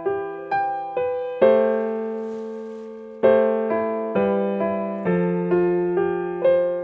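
Slow, gentle solo piano music: single notes struck about twice a second, each ringing and fading, with fuller chords struck about a second and a half in and again about three seconds in.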